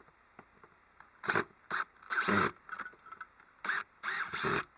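Handling noise: a few faint clicks, then from about a second in a series of short rustling and scraping bursts, as wiring and gear are handled.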